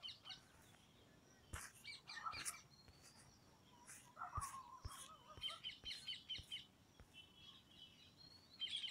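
Faint birdsong: small birds chirping in quick repeated trills, with a few soft clicks.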